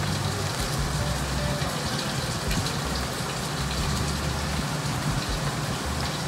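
Steady rain falling, an even hiss with a low hum underneath.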